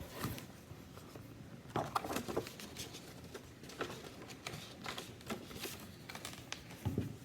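Handling noise from a paper picture book: scattered soft clicks and paper crinkles as it is handled and its pages turned, with a soft thump near the end.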